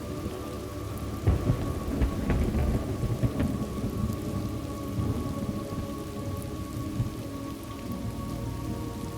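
Steady rain with rolling thunder, the rumbles heaviest between about one and three and a half seconds in.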